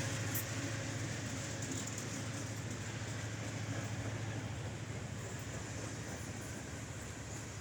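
CSX freight train rolling past, a steady rumble that slowly fades.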